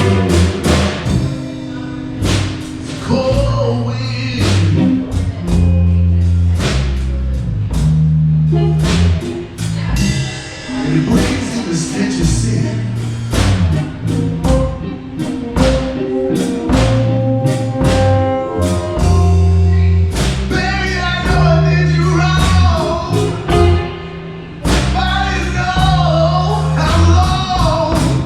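Live blues band playing a slow blues instrumental break: drum kit keeping a steady beat under a bass line and guitar, with a lead line bending its notes up and down in the second half.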